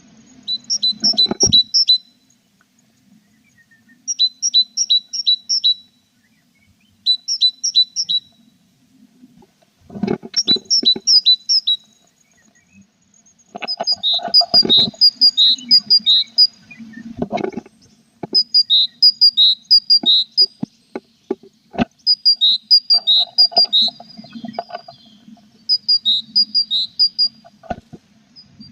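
Tits calling at a nest box: bursts of quick, high chirps, several notes each, repeating every second or two. Soft rustling and a few sharp knocks come in between.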